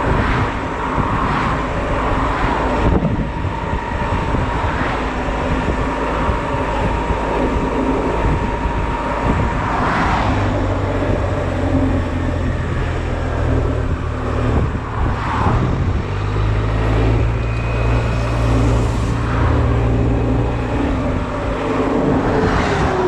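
Honda Silver Wing scooter riding along in slow traffic, its engine running with a steady hum that settles more clearly about halfway through, over continuous road and wind noise.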